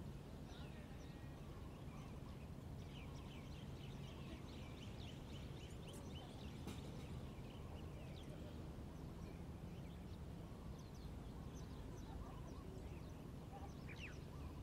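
Birds chirping: many short, quick calls, busiest in the first half and again near the end, over a faint steady low rumble.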